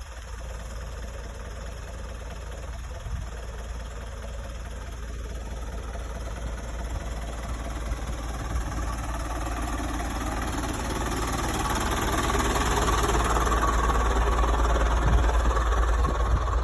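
Dump truck's diesel engine running steadily, growing gradually louder through the second half as it is worked harder.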